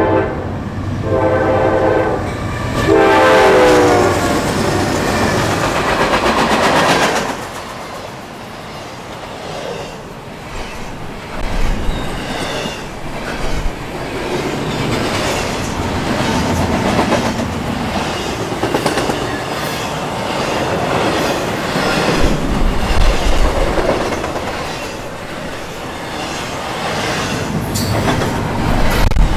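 Norfolk Southern freight locomotives blow their horn in three blasts, the last sliding down in pitch as they pass close by. The train of double-stack intermodal container cars then rumbles past with steady wheel clatter on the rail joints.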